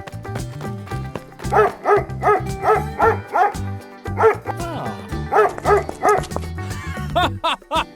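Dog barking in three runs of quick barks over background music.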